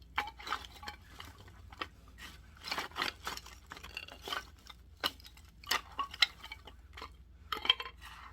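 Pieces of split firewood knocking and clattering together: an irregular run of sharp knocks and clinks, several a second, with a few louder ones.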